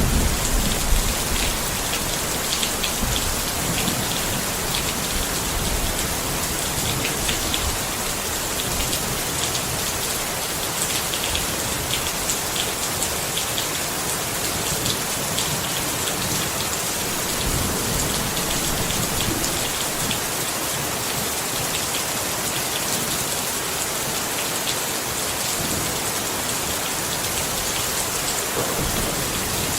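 Steady rain falling on a tent, a dense even patter with individual drops ticking through it. A low rumble sits under the rain in the first second or so.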